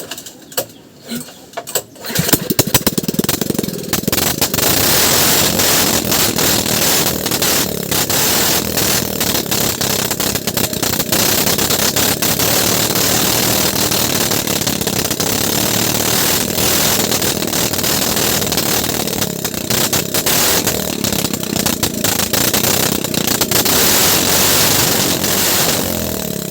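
Small boat engine starting about two seconds in, then running loudly and steadily.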